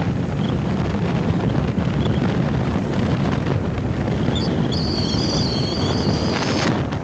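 Wind buffeting the microphone, a steady low rumble. A thin, high whistling tone is heard from about halfway through until just before the end.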